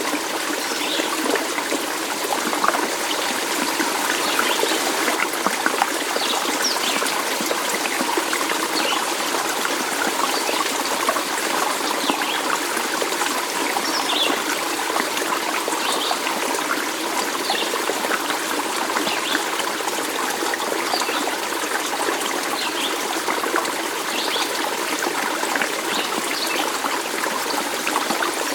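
A stream flowing with a steady trickling, babbling sound, even throughout.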